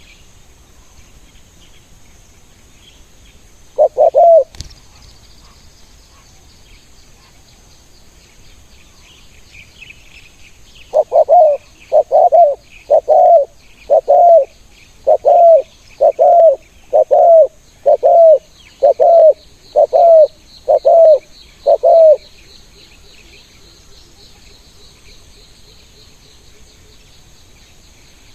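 Spotted dove cooing: a single coo about four seconds in, then a run of about a dozen loud coos, roughly one a second, that stops a little past the middle. Insects buzz faintly and steadily behind.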